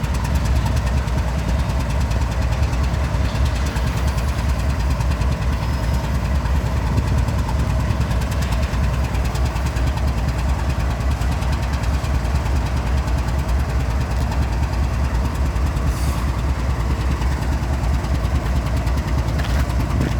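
Diesel-electric locomotive engines idling nearby: a steady, deep rumble that holds at an even level throughout.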